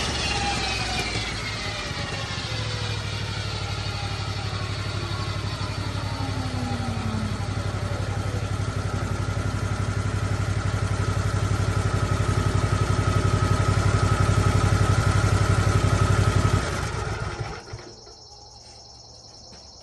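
Lucas Mill swing blade sawmill's engine idling while the blade's whine falls in pitch as it coasts down. The engine is shut off about three-quarters of the way through and goes quiet, leaving crickets chirping.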